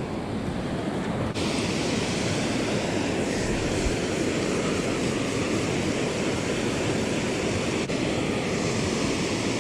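Steady rush of falling water from a waterfall, a continuous even roar of noise that turns suddenly brighter and hissier about a second and a half in.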